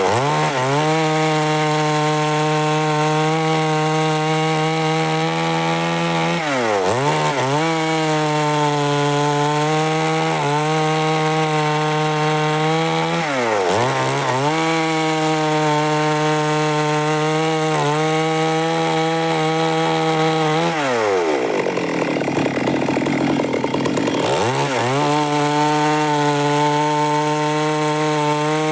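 Stihl MS 382 two-stroke chainsaw running at high revs while cutting wood. Its revs dip and recover about five times, once for a few seconds about three quarters of the way through.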